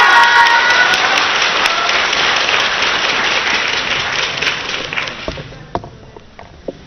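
Audience applause in an indoor hall, steady and then dying away about five seconds in, followed by a few sharp taps.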